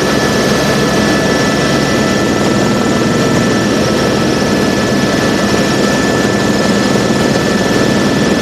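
Helicopter in flight, heard from inside the cabin: a dense, even engine and rotor noise with a few steady high whining tones over it.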